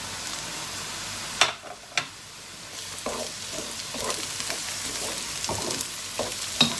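Chopped onion, garlic and ginger sizzling in hot oil in a non-stick pan. Two sharp knocks come about a second and a half in, the sizzle dips briefly, and then a wooden spoon stirs and scrapes through the pan.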